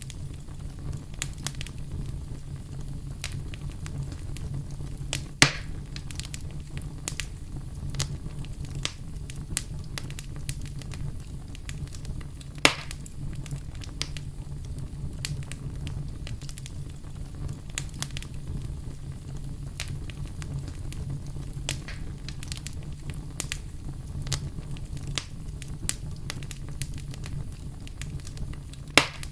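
Wood fire crackling: a steady low rumble of burning with frequent small crackles and pops, and a few louder snaps, about five seconds in, near the middle and near the end.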